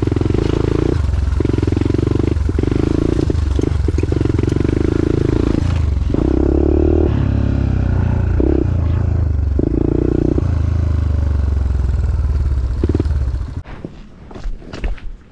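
Single-cylinder trail bike engine running at low revs along a rough dirt track, heard from on the bike, with the throttle rising and easing off. Near the end the engine sound cuts off abruptly, leaving quieter clicks and scuffs.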